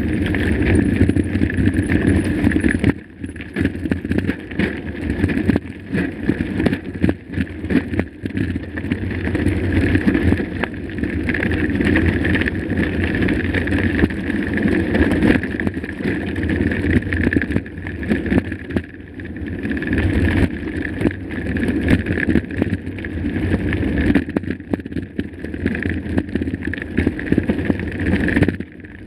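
Mountain bike being ridden over a rough, rocky dirt trail: continuous tyre noise and rattling of the bike over the ground, easing off briefly a few seconds in and near the end.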